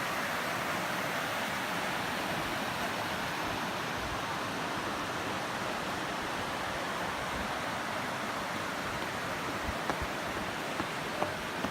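Steady rushing of river water over rocks and falls, with a few faint knocks near the end.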